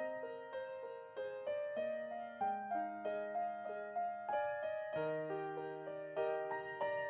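Soft background piano music: a gentle melody of single notes over held bass notes.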